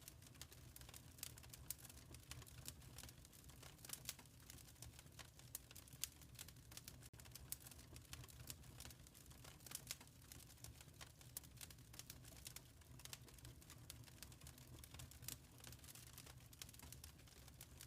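Wood fire crackling quietly in a fireplace: a dense, irregular run of small clicks and pops, a few louder ones standing out, over a steady low rumble.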